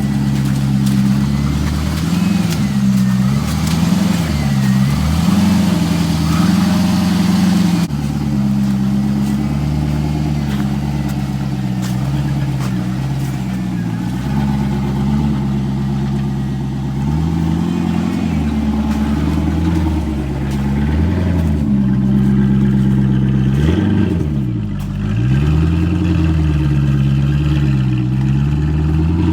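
Vehicle engine running hard, its revs rising and falling over and over as the throttle is worked.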